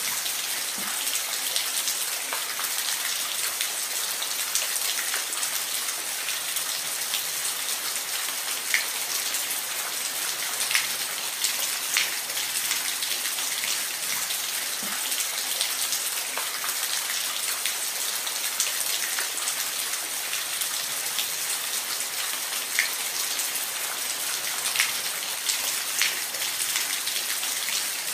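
Steady rain falling, a continuous hiss with individual drops ticking sharply every second or two.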